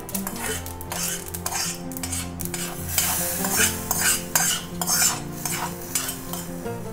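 Spoon stirring and scraping food in a cooking pot, in repeated strokes about two a second.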